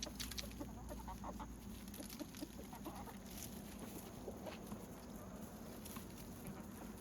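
Free-range chickens clucking softly, with scattered short low calls and faint clicks.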